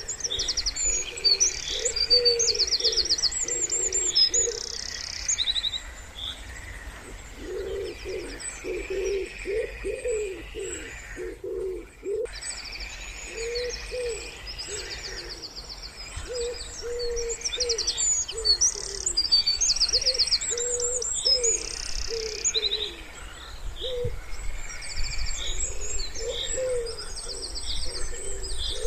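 Wood pigeons cooing in repeated phrases of soft low notes, with small songbirds singing high, fast trills over them in several bouts.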